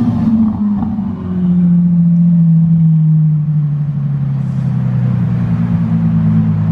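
A car engine running loud, its low note sliding slowly down in pitch over several seconds.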